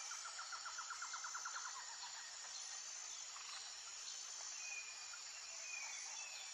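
Faint outdoor nature ambience: a steady high hiss, with a small bird's rapid trill of about ten chirps a second in the first two seconds and a couple of thin high whistles later.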